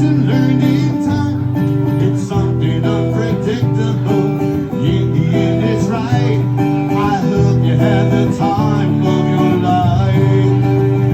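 Live band music: a strummed acoustic guitar with a singer's voice over it.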